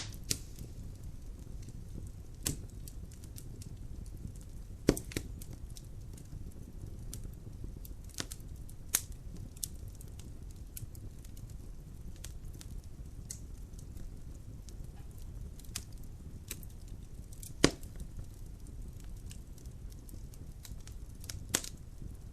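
Wood logs burning in a fireplace: irregular sharp crackles and pops over a steady low sound of the fire. The loudest pops come right at the start, about five seconds in, and twice near the end.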